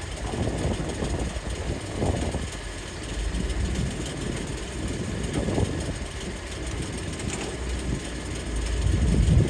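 Diesel engines of an excavator and dump truck running at work. The engine rumble swells louder a few times, most strongly near the end.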